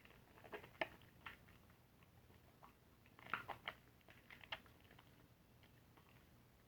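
Soft, irregular wet squishing and crackling of a soapy car sponge being squeezed, in scattered clusters that thin out near the end.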